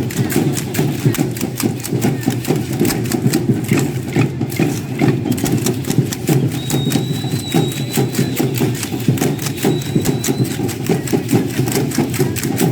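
Dance percussion at a matachines dance: a fast, steady clatter of beats, about five a second, with a heavy low rumble beneath. A thin high tone is held for about four seconds near the middle.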